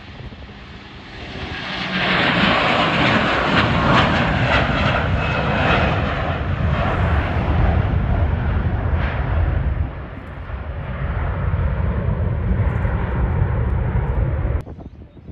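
An airliner's engines passing close by with a loud, steady rush of noise that builds over the first two seconds. It dips briefly about two-thirds of the way through, then cuts off suddenly near the end.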